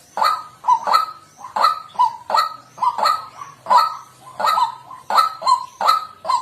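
White-breasted waterhen giving its harsh repeated 'kwak' calls, about three a second, as a lure call for trapping.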